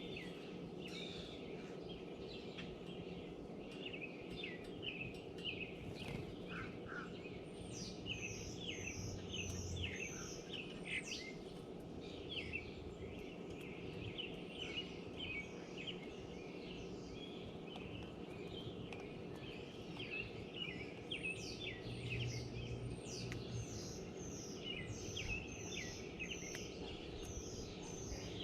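Songbirds chirping and calling: many short, quick chirps, with runs of fast, high repeated notes partway through and again near the end, over steady low background noise.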